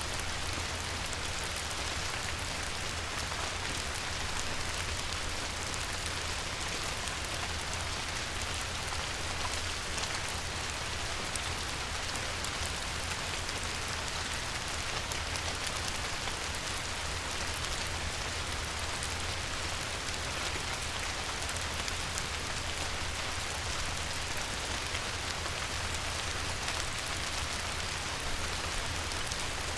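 Light rain falling steadily on a river, an even patter and hiss of drops that doesn't change, with a low steady rumble underneath.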